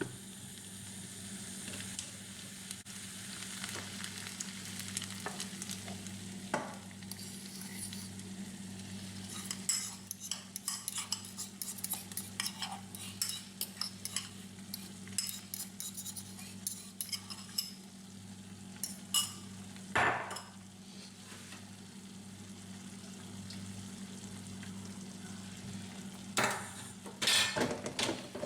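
Food frying and sizzling in a pan while it is stirred, the utensil scraping and clicking against the pan many times. A steady low hum runs underneath.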